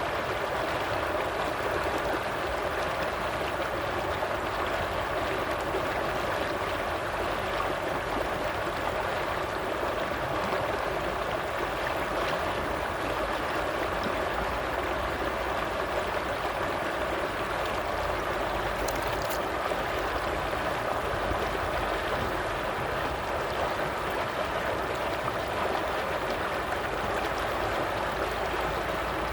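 A stream of water flowing, a steady rushing with no break.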